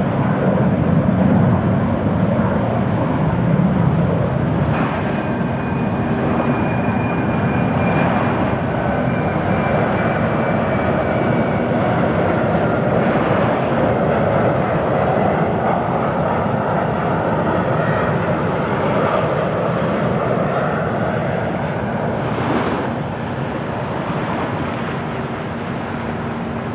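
Airliner's jet engines running, a continuous loud noise with a thin high whine for several seconds in the first half; the noise eases slightly toward the end.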